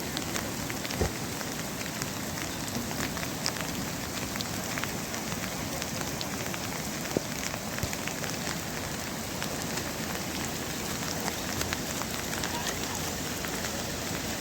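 Steady rain falling, a dense patter of individual drop hits, with a few sharper ticks standing out now and then.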